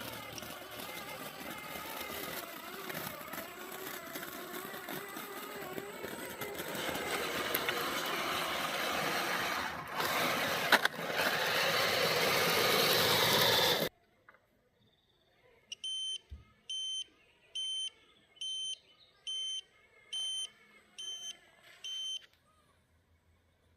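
A radio-controlled truck running: a dense, noisy drive sound that grows louder and cuts off suddenly about fourteen seconds in. Near the end come eight evenly spaced high electronic beeps, a little under one a second.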